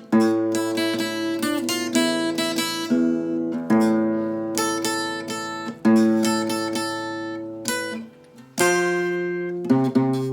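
Guitar playing the melody of an enka song in plucked notes, with a louder struck chord about every two seconds that rings and dies away.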